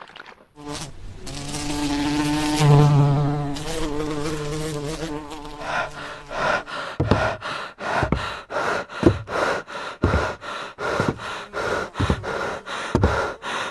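A fly buzzing with a wavering pitch, then from about six seconds a rapid, even pulsing of about three strokes a second under a steady high buzz.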